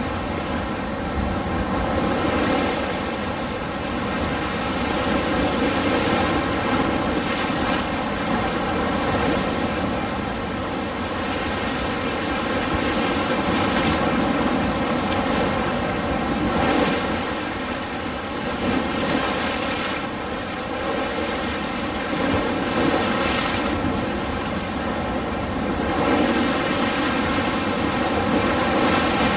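Ocean waves: a continuous rushing wash of surf that slowly swells and eases every few seconds.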